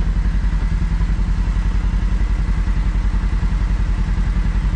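Kawasaki KRX side-by-side's parallel-twin engine running at low revs with an even, rapid low throb as the machine crawls over the trail. A faint steady high whine sits above it.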